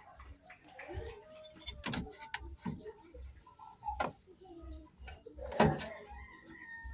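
A few sharp clicks and knocks, the loudest about two, four and five and a half seconds in, over faint background voices.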